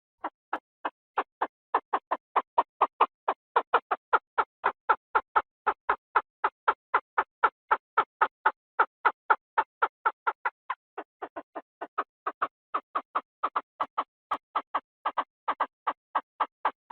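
Chinese francolin calling: a fast, even string of short harsh notes, about three or four a second. The notes grow quieter for a moment about two-thirds of the way through.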